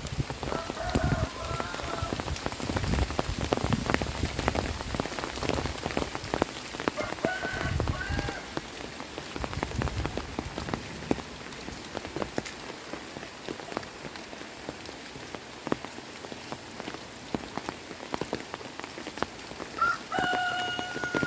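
Heavy rain falling steadily, with many sharp drops pattering on nearby surfaces. A short pitched call, about a second long, cuts through three times: near the start, about seven seconds in, and near the end.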